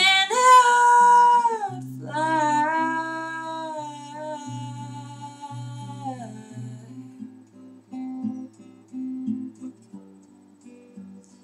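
A woman singing a long, drawn-out note over acoustic guitar. The voice stops about six seconds in, and the guitar carries on alone, growing quieter.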